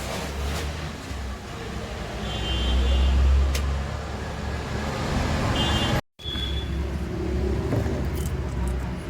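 Low rumble of a motor vehicle, swelling to its loudest about three seconds in and then easing, with a few short high-pitched chirps over it.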